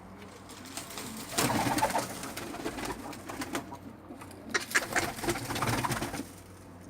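Birds calling in two spells, one about a second and a half in and a longer one from about four and a half seconds in.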